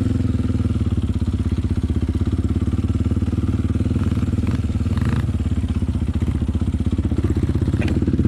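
Enduro dirt bike engine running steadily at low, even revs, its rapid firing pulse unchanged throughout.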